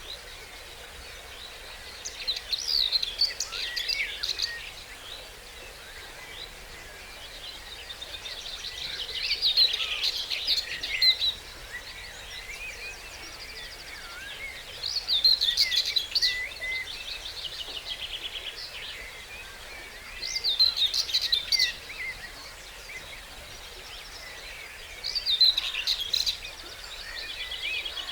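Dawn chorus of songbirds. One bird sings a loud trilled phrase of two to three seconds about every five to six seconds, five times, while other birds chirp faintly between its phrases over a steady faint hiss.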